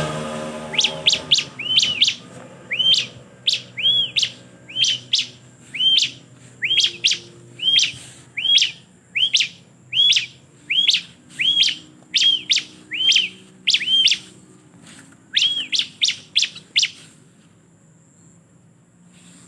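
Prinia (ciblek) calling: a long series of sharp, high chirps, each arching quickly up and down in pitch, about one to two a second, that stops near the end.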